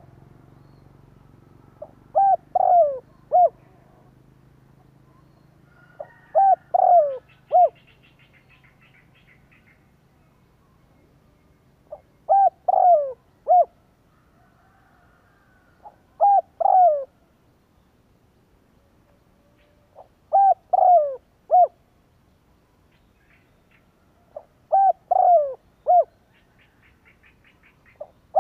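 Spotted dove cooing: six phrases of three or four notes, each note sliding down in pitch, repeated about every four seconds. This is the call used to lure wild doves.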